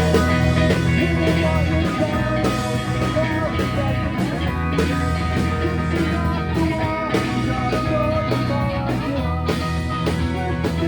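Live rock band playing an instrumental passage: electric guitars, bass and drums, with no singing.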